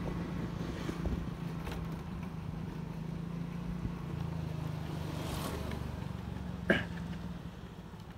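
Small motorcycle engine running at low speed while riding, a steady hum with a held pitch that fades near the end. A single short, sharp sound stands out about two-thirds of the way through.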